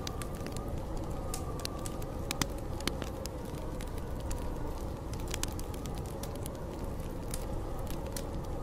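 Wood fire crackling with frequent sharp pops over a steady, low rush of snowstorm wind that wavers slightly in pitch.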